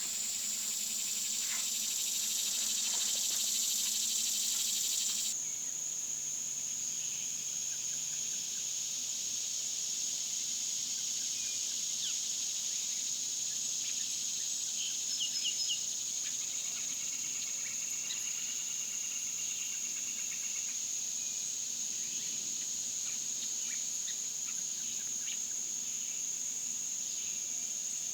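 Insects in the woods keeping up a steady, unbroken high-pitched trill. A broader hiss under it cuts off suddenly about five seconds in, and a few faint ticks come near the middle.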